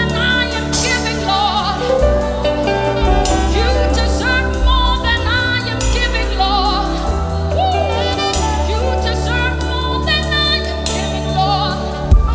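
Gospel worship music: voices singing long, wavering notes over a band with a steady deep bass and regular sharp percussive hits.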